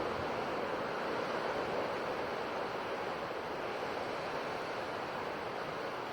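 Ocean surf washing onto the shore as a steady rushing noise, with no single wave break standing out.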